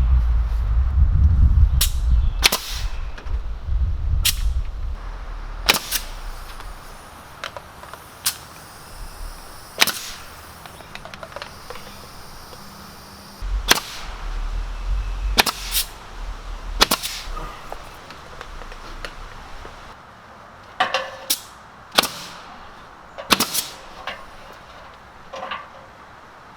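Sharp single knocks of nails being driven as cedar siding boards are fastened, about fifteen strikes at irregular intervals of one to three seconds, some in quick pairs.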